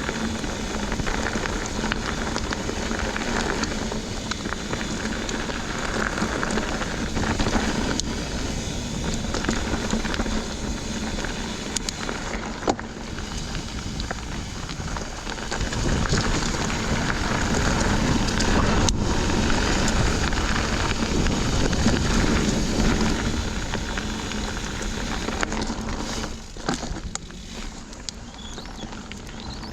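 Mountain bike rolling fast over a dirt trail: a steady rushing, crackling noise of tyres and wind, with a few sharp knocks from bumps. It eases somewhat near the end.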